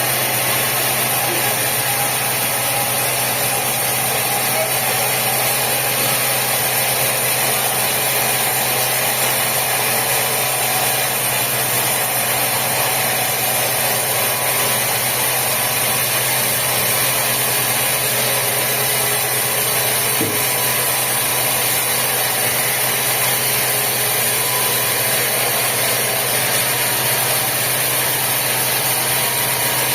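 Sawmill machinery running steadily: an engine drone with a constant hiss over it, unchanging in level.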